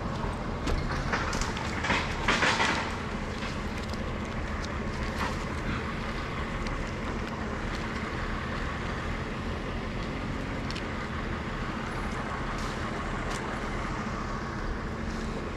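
An engine running steadily, with a brief louder noisy burst about two seconds in.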